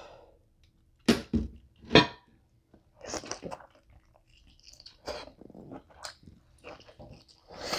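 Mouth sounds of someone eating sauce-covered lobster tail meat: irregular chewing with sharp smacks. The two loudest smacks come about one and two seconds in.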